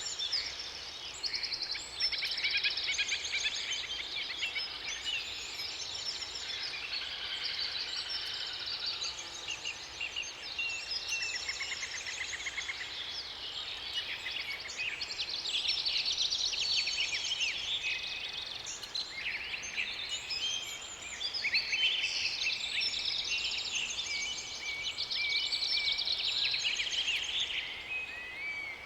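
A chorus of several songbirds singing at once: overlapping high chirps, fast trills and short whistled notes, none dominating for long, over a faint steady hiss.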